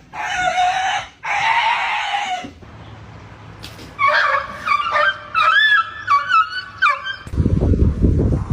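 A cat yowling in two long, rough cries, then a run of quick, high, squeaky animal cries about four seconds in, and a low rumble near the end.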